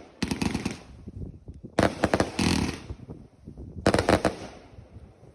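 Fireworks going off: three clusters of rapid, sharp bangs and cracks, about two seconds apart, fading away near the end.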